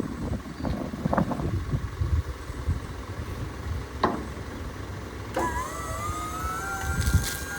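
Garbage truck running with a low rumble and scattered clanks. About five seconds in, a mechanical whine rises quickly and then holds a steady pitch.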